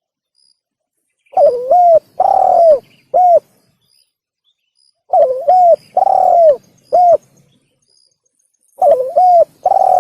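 Spotted dove (tekukur) cooing: the same phrase of about four coos, the third drawn out, repeated three times a few seconds apart. It is the dove's song played as a lure call for trapping.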